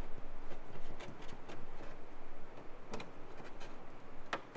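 A few sharp, irregularly spaced clicks and light taps, about five in all, the loudest near the end: hand tools and small bolts being handled while a car's rear panel is unbolted.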